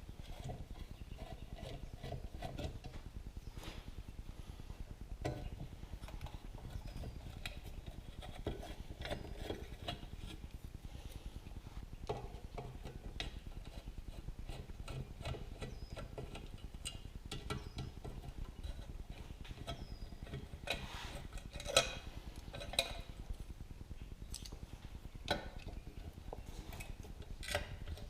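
Scattered light metallic clinks and knocks of small hardware and hand tools being handled while a cast iron stove door is taken apart, with a few sharper clicks in the last third.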